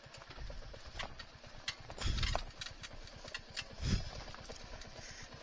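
Irregular clicking and clattering of a motorcycle rolling slowly over a stony forest track, with two low rumbling swells about two and four seconds in.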